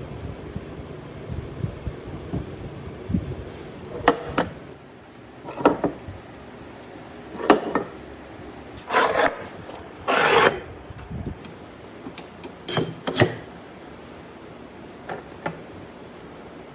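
Pieces of wood being handled and worked by hand: scattered knocks, and two short scraping strokes about nine and ten seconds in.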